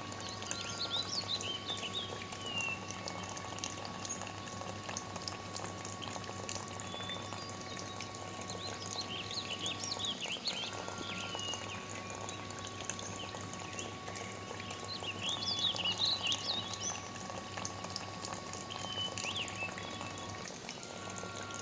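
Small birds chirping in quick clusters, over a steady faint hum.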